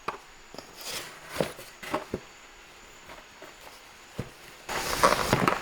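Handling noises: scattered light clicks and rustles, then louder, continuous crinkling of plastic packaging from about five seconds in, as a parcel is unwrapped.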